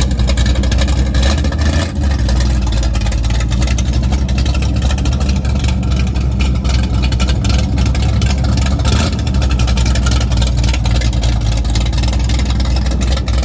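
Car engine running steadily with a deep, low rumble.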